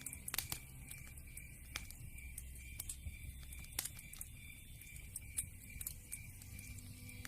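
Wood fire crackling: irregular sharp pops and snaps of varying loudness over a low, steady rumble of burning logs.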